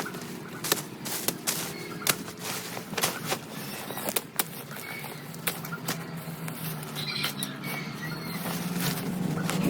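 Irregular sharp knocks and clicks, several a second, over a faint steady low hum.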